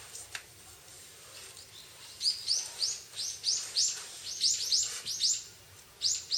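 A small bird chirping: a quick run of short, high, rising chirps, about three a second, with a brief pause before two more.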